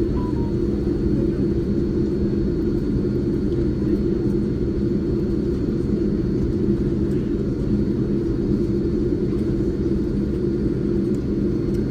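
Boeing 787-9 cabin noise while taxiing: a steady low rumble from the engines at taxi power and the rolling aircraft.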